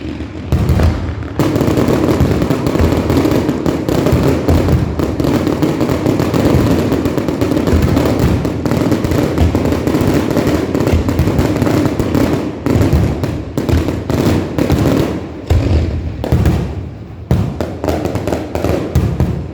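Fireworks display in a rapid, continuous barrage of booms and crackling bangs, breaking into separate volleys with short gaps in the last few seconds.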